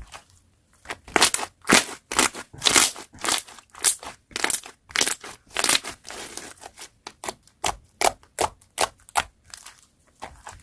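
Slime being pressed and squished by hand, a run of crackling pops about two a second that starts about a second in.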